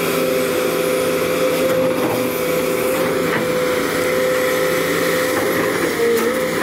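Sumitomo SH210 excavator's diesel engine running steadily under working load: a loud, even drone with a steady whining tone that wavers briefly near the end.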